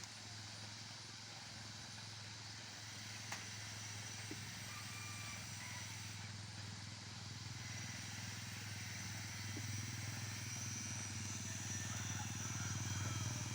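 A motor vehicle's engine running steadily with a low hum, growing louder toward the end as it comes closer, over a steady outdoor background hiss.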